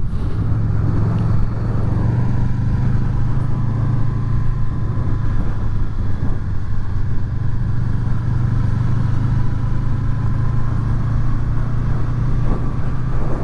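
Honda VFR800's V4 engine running at a steady road speed, with a constant low engine note and road and wind noise.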